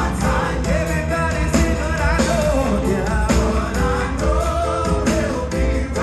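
Live gospel music: voices singing a wavering melody over a band with a strong, steady bass and regular drum beats.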